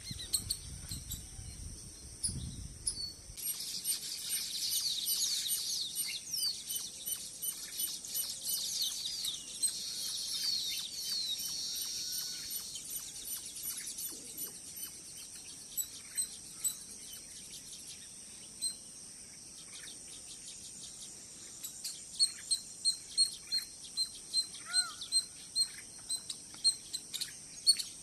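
Wild birds chirping and calling over a steady high insect hum. Dense twittering fills the first half, after a low rumble in the opening seconds; near the end, sharp chirps repeat about twice a second.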